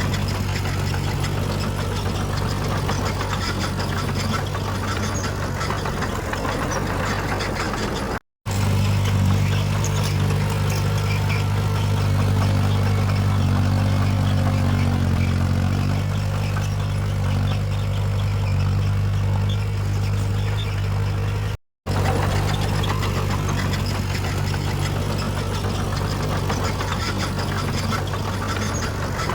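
Heavy diesel engine of earthmoving machinery running steadily, its pitch dipping and recovering briefly around the middle. The sound drops out for a moment twice, at edit cuts.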